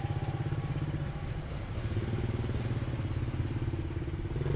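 Motorcycle engine idling with a steady, rapid pulse.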